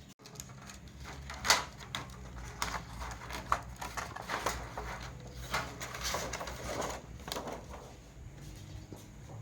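Scattered light clicks and taps from handling tools or parts, the sharpest about a second and a half in, over a steady low hum.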